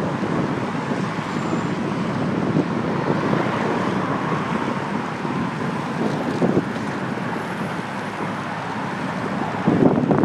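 Wind buffeting the microphone of a handlebar-mounted phone on a moving bicycle, a steady rushing noise mixed with road and traffic noise, with a few brief rumbling swells.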